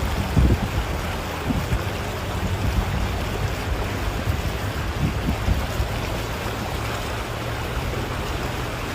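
Heavy rain falling steadily, with wind buffeting the microphone in the first second or so and again briefly about five seconds in.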